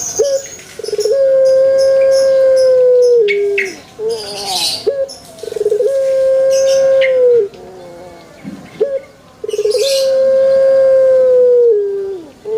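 Male Barbary dove (burung puter) cooing: three long drawn-out coos, each a short note followed by a steady held tone that drops away at the end. Faint high chirps sound between the coos.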